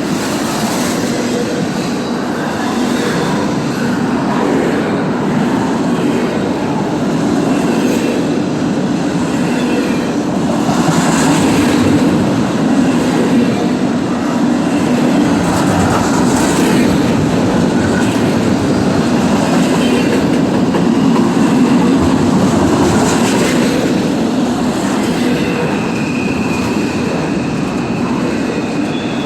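Intermodal freight train cars rolling past, wheels clattering steadily over the rail joints, with a faint high wheel squeal coming in near the end.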